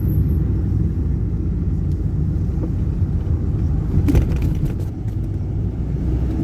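A car driving along a road, a steady low engine-and-road rumble, with a brief rattle about four seconds in.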